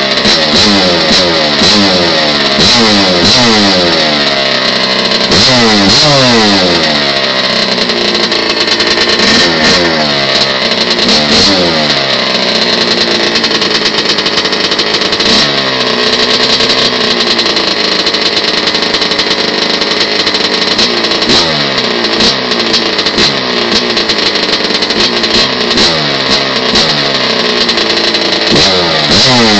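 Kawasaki KX100 two-stroke dirt bike engine with an FMF Gold Series pipe and Powercore 2 silencer, warming up after a cold start and being blipped over and over, the revs climbing and falling back each time. The revs hold steadier for a few seconds about midway, then the blipping picks up again.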